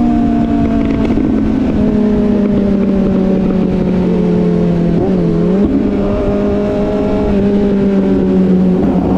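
Motorcycle engine running at a steady cruise, its pitch sagging slowly, with a brief drop and recovery in pitch about five seconds in, over heavy wind noise.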